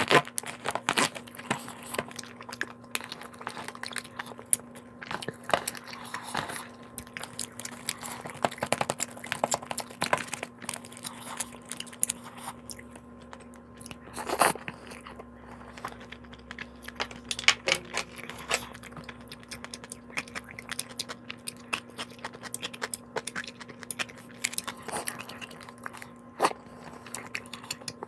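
A person chewing and eating food close to the microphone, with many irregular crisp crunching clicks and bites.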